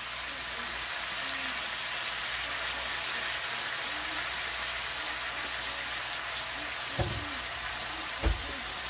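Goat meat, tomatoes and onions sizzling in a hot wok as soy sauce is poured in, a steady frying hiss. Two dull knocks about seven and eight seconds in, the second louder.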